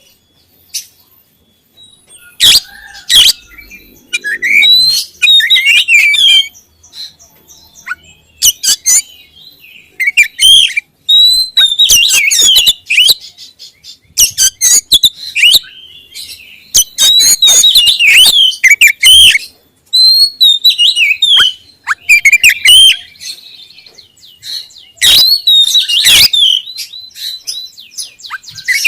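Oriental magpie-robin (kacer) singing loud, varied whistled phrases that come in bursts with short pauses between them.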